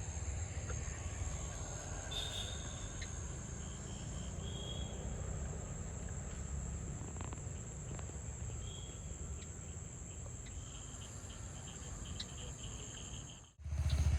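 Insects trilling in one steady high-pitched tone, over a low rumble, with a few short chirps; it cuts off suddenly near the end.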